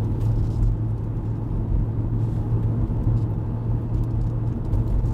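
Hyundai Avante (CN7) under way, heard from inside the cabin: a steady low rumble of engine and tyre-road noise, with a constant low hum.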